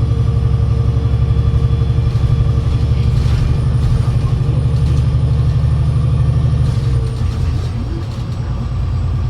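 Alexander Dennis Enviro500 MMC double-decker bus under way: a steady pulsing engine rumble with a steady whine from its Voith 864.5 automatic gearbox. About seven seconds in, the lower whine stops and the sound gets a little quieter.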